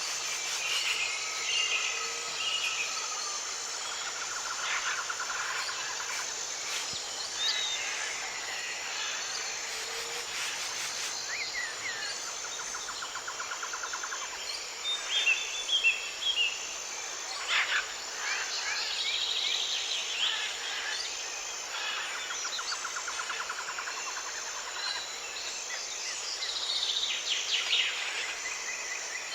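Forest birdsong: several birds calling and chirping, with the same short trill repeated about every nine seconds, over a steady, evenly pulsing high insect chirp.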